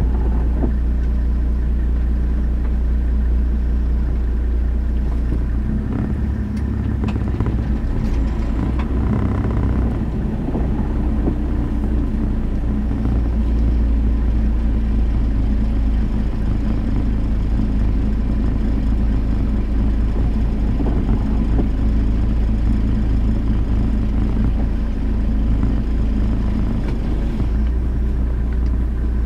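Car engine running with a steady low rumble, heard from inside the cabin as the car reverses slowly.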